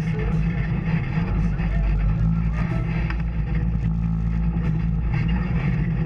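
Off-road vehicle engine running steadily on a trail, with a constant low hum and rattling.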